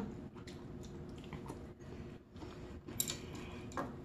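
Quiet eating sounds: chewing of rabokki noodles and rice cakes, with scattered light clicks and two sharper ones about three seconds in and near the end.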